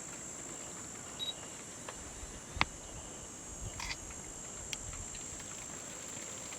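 Insects, crickets or similar, chirring in a steady high-pitched chorus, with a few sharp clicks, the loudest about two and a half seconds in.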